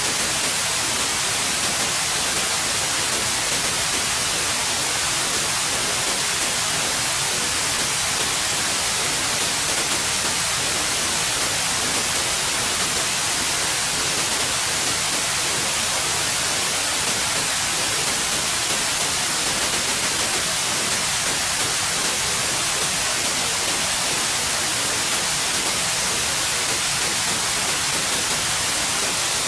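Steady white noise: an even hiss, strongest in the high frequencies, that does not change.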